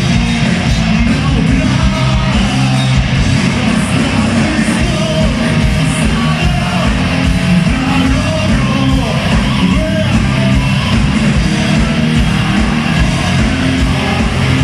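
Live metal band playing in a hall: heavy distorted guitars, bass and pounding drums, with a vocalist singing and shouting over them.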